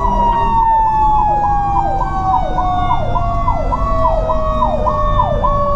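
Mechanical Q siren winding down in one long, slowly falling tone, layered with an electronic siren sweeping up and down about twice a second. The fire truck's engine rumbles underneath.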